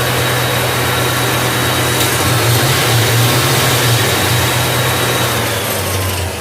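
Iveco alternator with a new freewheel pulley spinning steadily under belt drive during a running test, with a low hum and a thin high whine. The new pulley grips and drives the alternator properly. Near the end the run starts to wind down.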